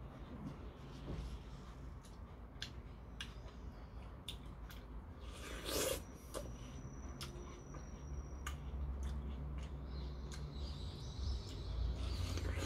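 A person biting and chewing watermelon chunks: a run of small wet clicks and mouth smacks, with a louder bite about six seconds in.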